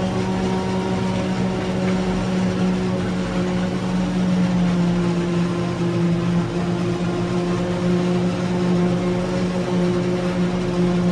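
Claas Jaguar 860 forage harvester working through standing maize under heavy load: a steady engine drone with a constant low hum.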